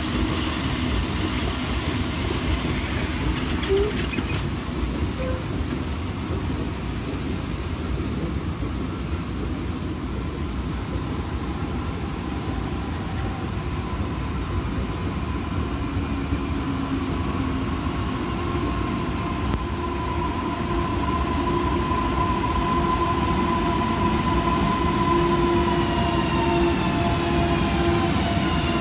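Electric multiple-unit train pulling into the station and braking, over a steady low rumble. From about halfway a high whine rises out of the rumble, and near the end its tones slide downward as the train slows.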